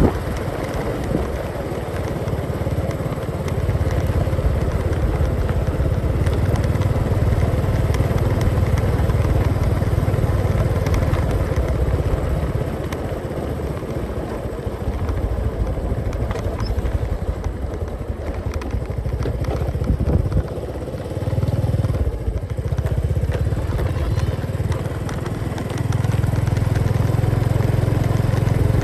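Motorcycle engine running on the move, a low drone that rises and falls with the throttle, easing off about twenty seconds in and picking up again near the end.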